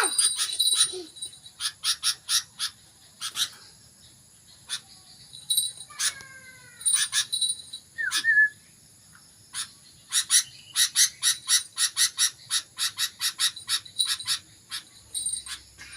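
Sooty-headed bulbul (kutilang) calling in a busy run of short, sharp chipping notes in bursts, with a couple of sliding whistled notes in the middle; the bird is coming into full voice.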